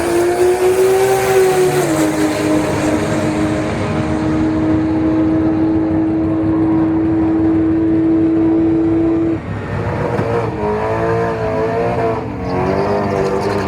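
Drag car's engine held at steady high revs for several seconds, dropping off sharply about nine seconds in, then revved up and down in short blips near the end.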